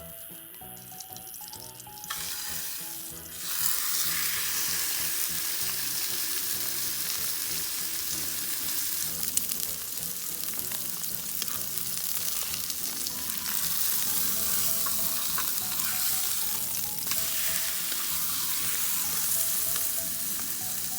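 Steak sizzling loudly on a hot grill. The sizzle starts about two seconds in and gets much louder a second and a half later, as the meat meets the hot metal, then holds steady. Faint background music plays underneath.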